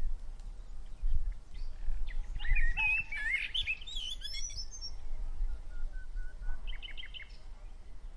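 Small birds chirping and twittering in quick clusters, busiest about two to four and a half seconds in and again near seven seconds, with one short steady whistle just before. A low rumble sits under it throughout.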